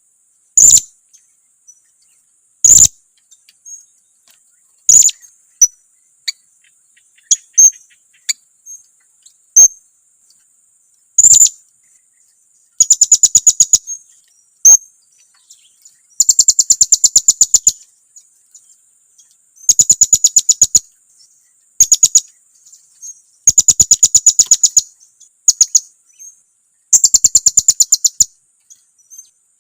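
Blue-crowned hanging parrot (serindit) calling: sharp, very high single chips spaced a second or two apart, then from about halfway through rapid chattering trills of about ten notes a second, each lasting one to two seconds, repeated six times. It is a serindit lure call, the kind used to provoke other serindits.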